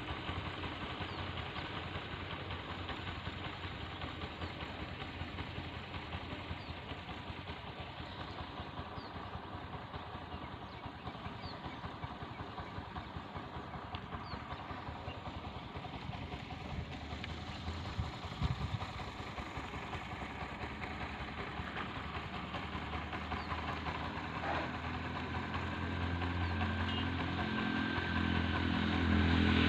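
Heavy rain falling steadily. Near the end a motor vehicle's engine grows louder as it approaches.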